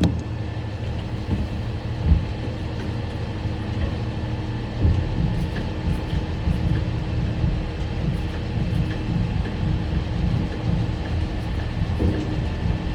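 Catering truck's diesel engine running steadily with the PTO engaged, driving the hydraulics as the catering box is lowered. Two dull knocks, about two and five seconds in.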